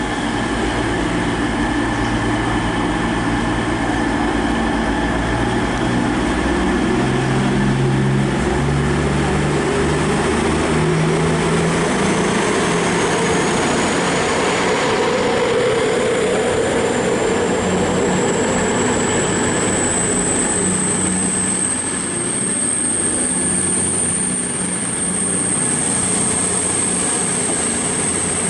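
Class 221 Super Voyager diesel multiple unit pulling away from the platform. Its underfloor Cummins diesel engines rev up in steps over the first ten seconds, then give way to a steady rush as the train draws out, with a thin high whine slowly rising in pitch through the middle.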